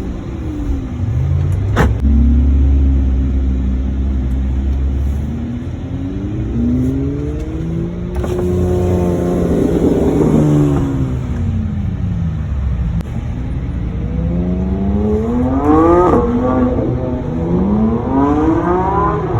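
High-performance car engines revving, their pitch climbing and falling several times. There is a sharp crack about two seconds in, a deep steady rumble just after, and a run of quick rising revs near the end.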